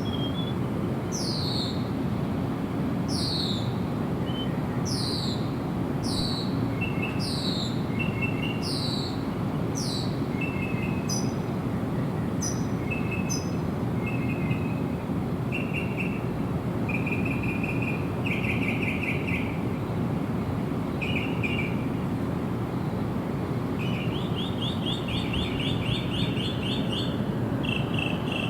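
Songbirds singing: a run of high whistled notes, each sliding down in pitch, about one a second, then shorter notes and quick trills later on. Underneath is a steady low background rumble.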